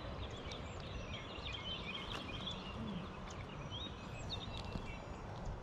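Several birds chirping and calling over one another in quick short notes, busiest in the middle, over a steady low background rumble.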